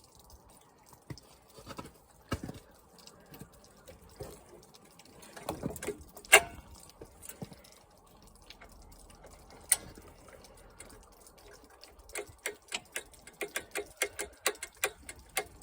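Hand tools clicking and clinking against metal while a fastener is being unscrewed from a lawn mower's carburettor, with a sharp clink about six seconds in and a run of quick clicks, about three or four a second, near the end.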